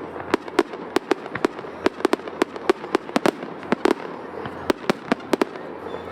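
Fireworks show: aerial shells bursting in quick, irregular succession, about three or four sharp bangs a second.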